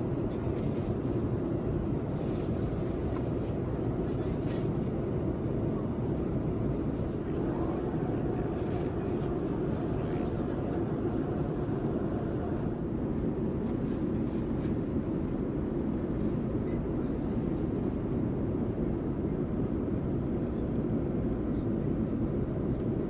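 Steady cabin noise of a Boeing 787-9 airliner in flight: a constant low rush of air and engine noise heard from inside the cabin.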